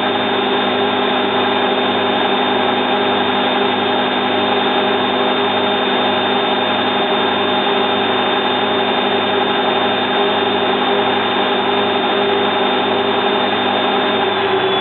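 Zanussi FLA1002W washing machine on a high-speed interim spin with a duvet load, running steadily with a thin high whine over the drum's rushing noise. The owners put the spin at about 850 rpm.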